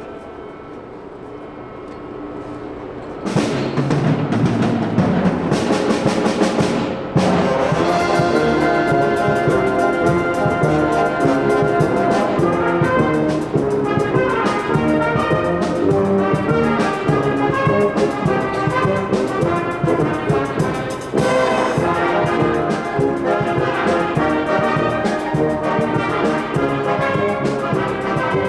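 Brass band music, with trumpets, trombones and drums, that comes in loudly about three seconds in and plays on.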